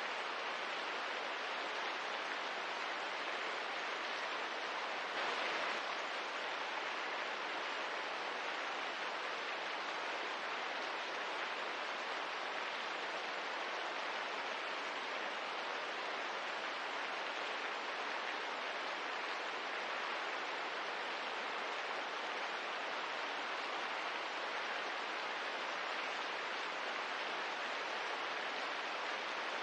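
Steady rain falling, an even soft hiss with no distinct drops, swelling briefly about five seconds in.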